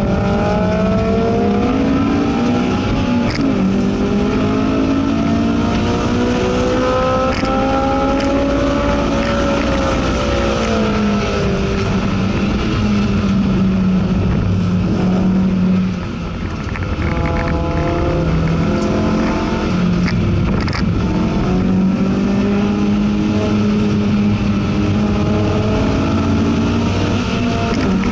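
Honda S2000 AP2's 2.2-litre four-cylinder engine, heard from inside the cabin, driven hard on a racetrack: the pitch climbs as it revs out and drops back on each shift or braking zone, over and over. There is a brief lift in the noise about 16 seconds in.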